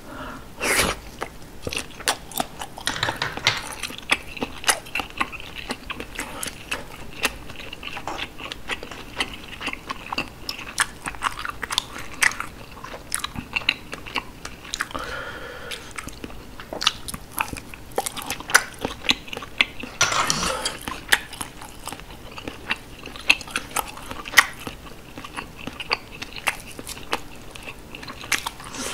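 Close-miked chewing of steamed sea snail (whelk) meat: wet chewing and smacking with many short, sharp clicks throughout, and a few louder wet mouth sounds about 1, 3, 15 and 20 seconds in.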